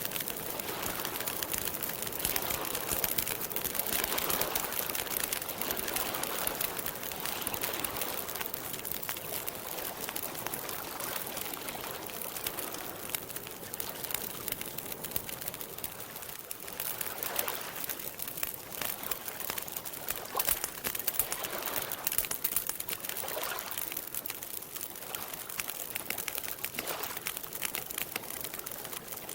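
Campfire crackling: dense small pops and snaps over a steady hiss.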